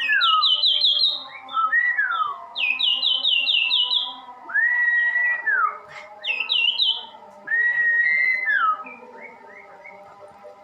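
A sirtu songbird singing in full, continuous song. Its phrases alternate runs of five or six quick, sharply falling chirps with long clear whistles that hold one note and then slide down, repeated several times. The song goes quieter near the end.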